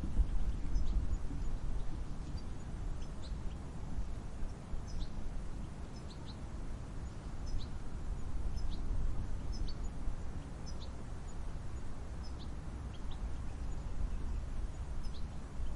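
Steady low wind noise with small birds giving short, high chirps roughly once a second.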